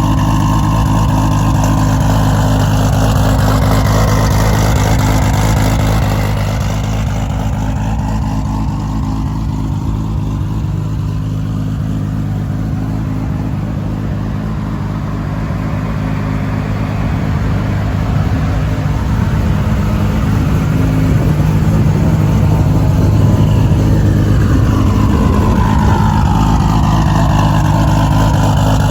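1997 Toyota Supra's built 2JZ inline-six idling steadily on a cold start, loud through a turbocharged 4-inch aluminium straight pipe. The level eases off in the middle and comes back up near the end.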